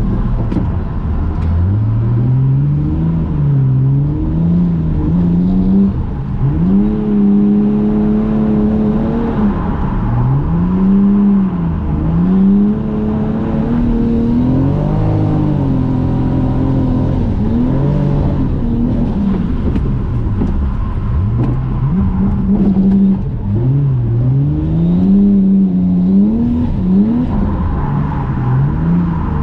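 Toyota JZX100 Mark II's straight-six engine heard from inside the cabin while drifting on a wet track, revs rising and falling over and over and holding high for a second or two at a time. About 24 seconds in, the revs swing up and down several times in quick succession.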